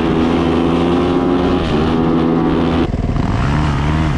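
Yamaha YZ450F single-cylinder four-stroke dirt bike engine running loud at steady high revs. Nearly three seconds in it drops suddenly to lower revs that rise and fall in quick blips.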